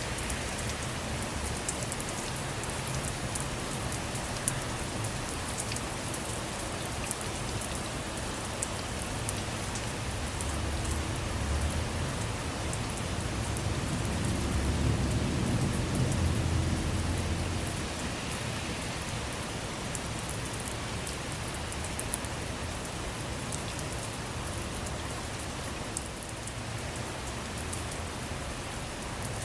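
Steady rain falling on a car, heard from inside, with many fine drop hits. A low rumble of distant thunder swells and fades about halfway through.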